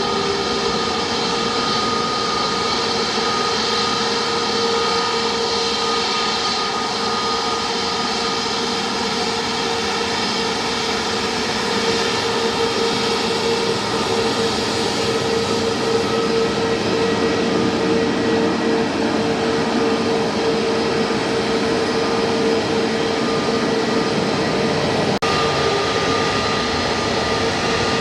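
Jet airliner engines running steadily: an even rushing noise with steady whining tones held throughout, and a single sharp click about 25 seconds in.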